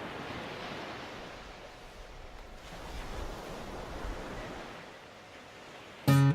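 A steady outdoor rushing noise that swells and fades gently. Just before the end, a plucked string instrument sounds its first notes loudly.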